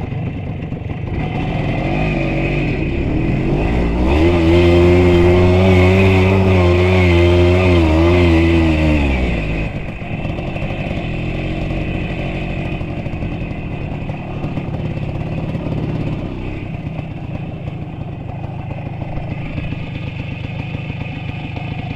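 Car engine driven under load, revved hard from about four seconds in and held high with a wavering pitch for about five seconds, then easing back to a steady lower run.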